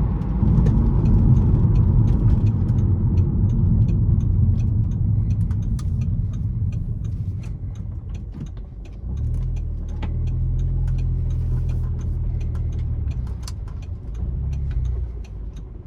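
Audi S3 8P's turbocharged four-cylinder engine heard from inside the cabin while driving: a heavy low drone that eases off about eight seconds in, then a steady engine note for a few seconds and a short pull again near the end, with faint ticks throughout.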